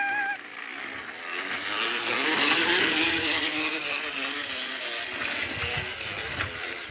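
Plastic PET bottle held against a bicycle wheel, flapped by the spinning spokes into a rapid buzzing rattle that imitates a motorbike engine. It gets louder about two seconds in, then holds.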